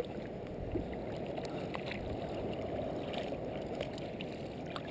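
Seawater sloshing and lapping against a kayak as it drifts, a steady low watery noise with a few faint small splashes and drips.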